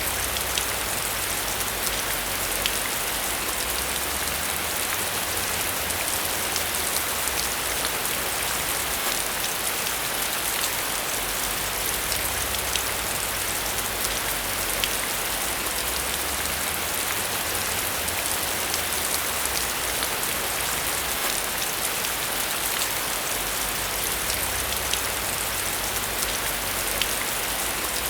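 Steady, heavy rainfall: a dense hiss of drops hitting a surface, with small drop ticks scattered through it. A faint low rumble swells and fades every few seconds beneath it.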